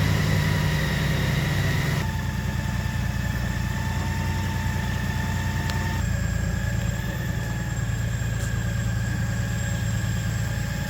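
Honda Gold Wing touring motorcycle's flat-six engine idling steadily, its tone shifting slightly about two seconds in and again about six seconds in.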